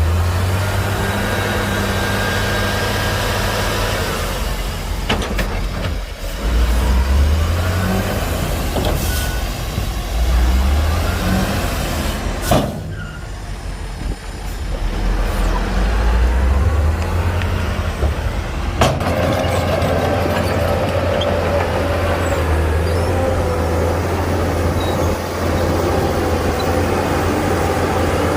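Heavy diesel earthmoving machinery running, its engine rising under load several times and easing off between. Two sharp knocks come about halfway through.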